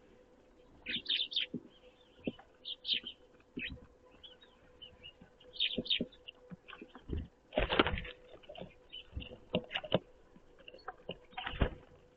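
Small songbirds at a feeder giving short, high chirps and calls throughout, with a few sharp flutters and knocks of birds coming and going, the loudest about eight seconds in.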